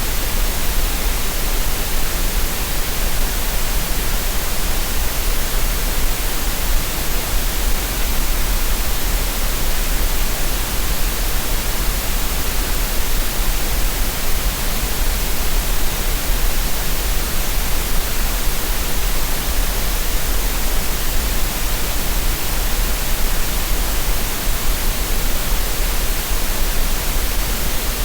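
Synthetic green noise: a steady, unchanging hiss spread across the whole range, with a deep rumble underneath and no breaks or events.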